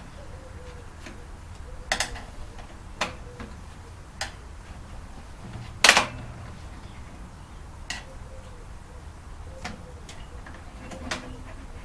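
Irregular clicks and knocks, about one every second or two, with a louder clunk about six seconds in, from parts and tools being handled while a microwave oven is taken apart.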